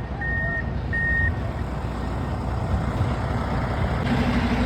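Vehicle backup alarm beeping twice, steady high beeps about 0.7 s apart, then stopping, over a steady low vehicle rumble. A low steady engine hum comes in near the end.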